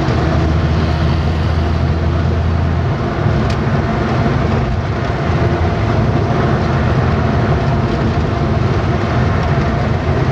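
Engine and road noise heard from inside a moving vehicle: a steady low engine hum under a dense rumble of tyres, with the engine's tone shifting about three seconds in.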